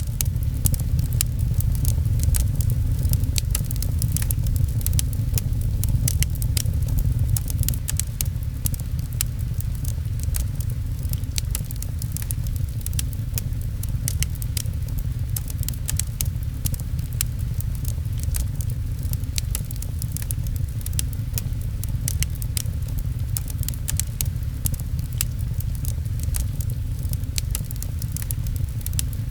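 Wood fire crackling in a fireplace, with dense sharp snaps and pops over a steady deep rumble, mixed with gentle rain on a window.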